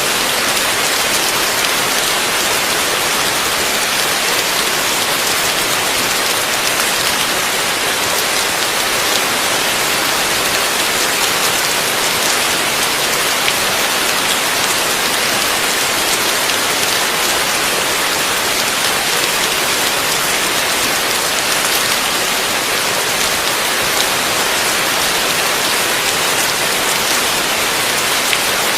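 Heavy rain falling steadily, a dense even hiss of drops with faint pattering ticks and no thunder.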